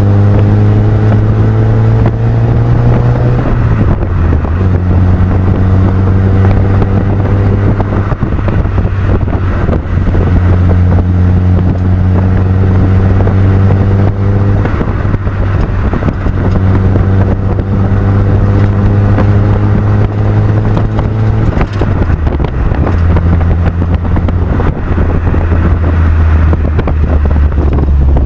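Mazda MX-5 NB 1.8's four-cylinder engine through an M2 Motorsport aftermarket exhaust, driving under steady acceleration. The exhaust note climbs slowly in pitch, then drops sharply at each gear change, about four times, with a little wind noise.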